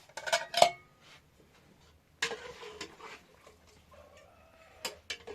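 Clinks and knocks of dishes and utensils being handled, several in quick succession at the start, with a scraping rustle about two seconds in and another knock near the end.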